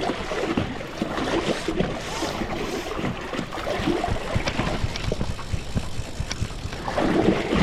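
River water splashing and gurgling in irregular bursts, with wind rumbling on the microphone.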